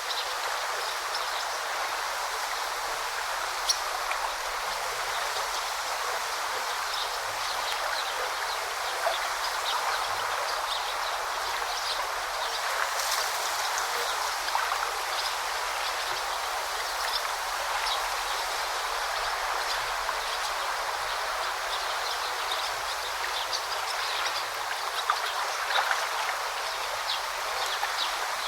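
Shallow forest stream babbling steadily over rocks, with small splashes and drips ticking through the constant rush of water.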